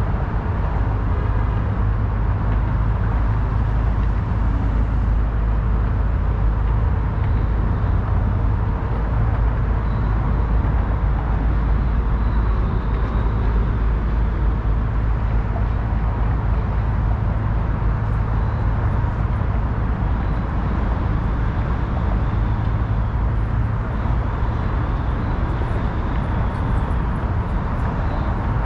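Steady urban ambience dominated by a deep, even rumble of road traffic, with no single event standing out.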